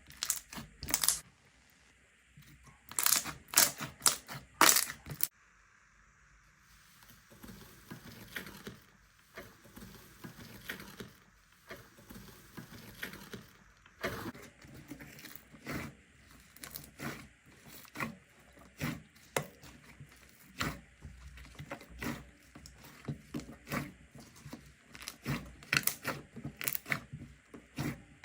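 Slime being handled, squeezed and pressed by hand, giving irregular sharp pops and crackles. A few loud pops come first, then denser, quieter crackling that grows louder again near the end.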